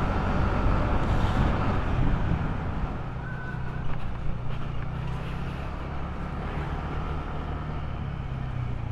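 Motor scooter engine running under way, with road and wind noise. It is louder and rougher at first, then settles into a steady hum a few seconds in.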